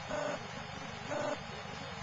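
Short electronic beeps repeating about once a second, over a steady background hiss.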